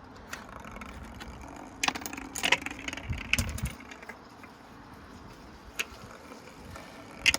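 Precept washing machine running with loose coins inside: a steady hum, then a burst of metallic clattering and heavy thumps about two to four seconds in as the coins bang around and the machine shakes, with a couple of single clinks near the end.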